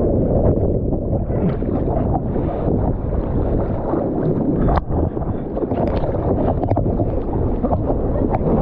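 Heavy wind buffeting the camera microphone over the rush and slosh of seawater while surfing, a dense, muffled rumble. There is one sharp knock about five seconds in.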